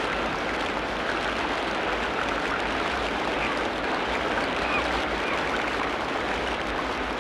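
Tropical rainforest ambience: a dense, steady hiss with a few faint short animal calls scattered through it.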